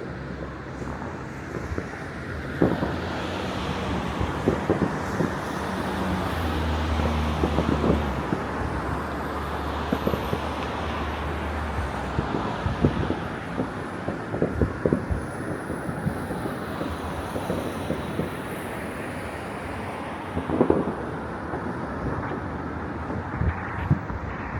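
Distant fireworks popping and banging at irregular intervals across a city, over a steady wash of city and traffic noise.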